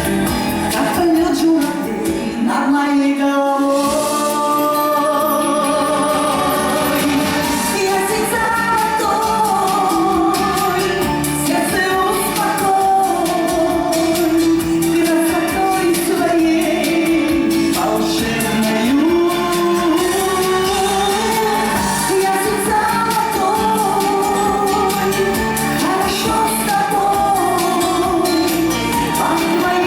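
A Russian song performed live: a singer's voice carrying a slow, wavering melody over a continuous instrumental accompaniment, in a large hall.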